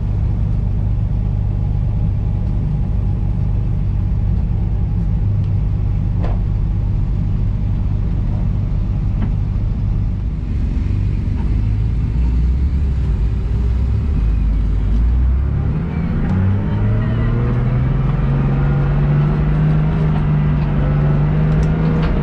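Single-turbo BMW S55 straight-six engine in a race-built M4 running at a steady low pace. About two-thirds of the way in, the engine note rises as the car accelerates, then holds at a higher pitch.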